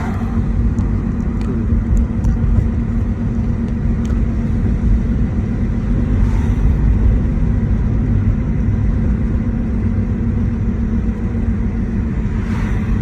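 Car engine and road rumble heard from inside the cabin while driving: a steady low drone.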